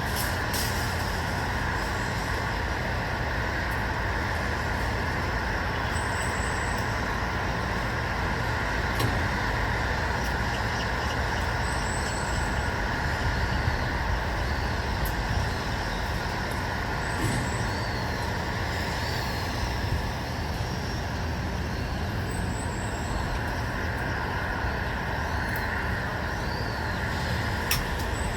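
Steady outdoor ambience of distant road traffic: a continuous rumble and hiss at an even level, with a few faint clicks and small high chirps recurring about every six seconds.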